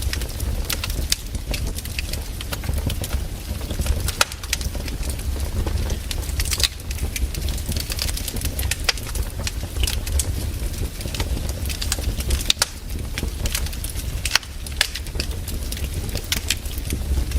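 Wood fire burning: irregular crackles and sharp pops from the burning logs over a low steady rumble.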